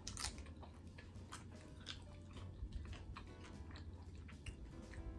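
Close-up mouth sounds of a person chewing nacho tortilla chips that have gone a little soft, with irregular small crunches and clicks.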